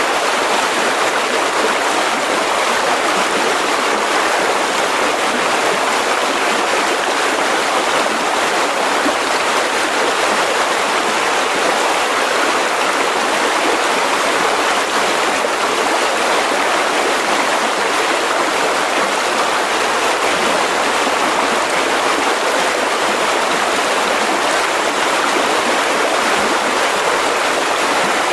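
Mountain river rushing over rocks, a steady, unbroken rush of water.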